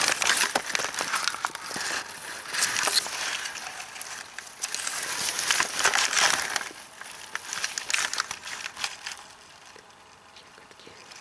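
Close rustling and crackling of grass and plant stems being pushed aside and handled while wild strawberries are picked, dying away after about nine seconds.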